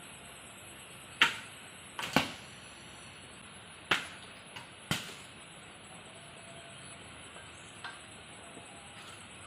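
Heavy drops of rainwater falling onto a hard surface: irregular sharp taps, two close together about two seconds in and the last loud one about five seconds in. Under them runs a faint steady hiss of rain.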